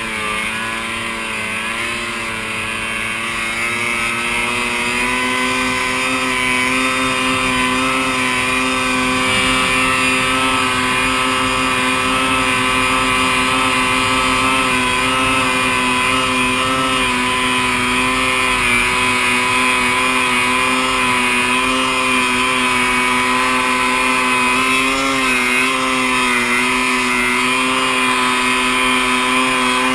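Snowmobile engine running at high revs under a rider's throttle, dipping briefly near the start, climbing over the next few seconds and then holding a steady, high drone.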